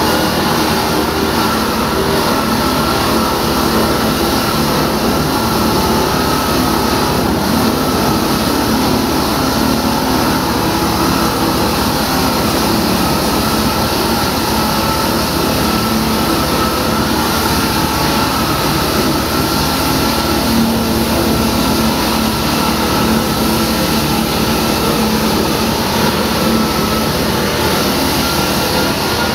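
Diamond-blade concrete saw running steadily while cutting: a loud, unbroken machine drone with a hiss over it and a few held tones.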